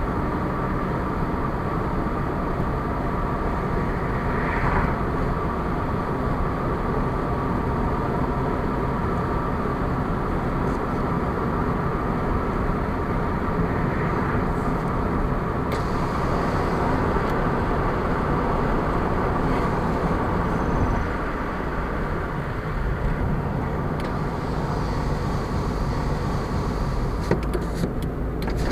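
A car driving along a road: steady engine and tyre noise, with a few faint ticks near the end.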